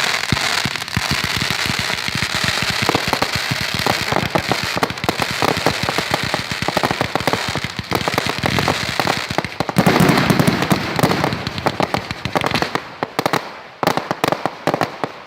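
Fireworks going off in a dense, rapid barrage of pops and crackles, loudest about ten seconds in, then thinning out and fading near the end.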